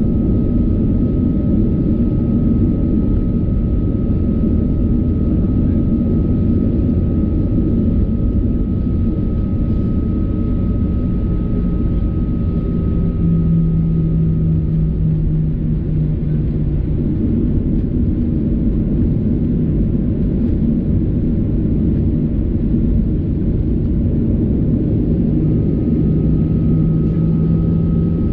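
Boeing 737-800 cabin noise with its CFM56-7B26 engines running while the jet taxis: a steady low rumble with a thin whine above it, and a deeper hum that comes in about halfway through, fades, and returns near the end.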